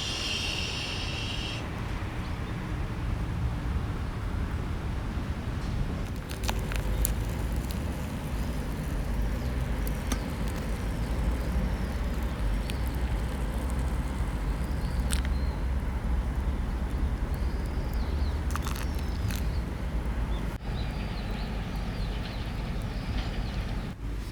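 Outdoor ambience dominated by a steady low rumble, with a few sharp crackles from a small wood fire in a camp stove and faint high chirps in the second half.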